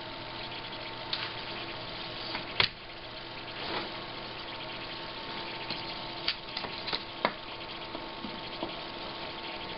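Scattered light clicks and taps from handling the parts of an opened LCD monitor, the loudest about two and a half seconds in, over a steady hiss with a faint steady whine.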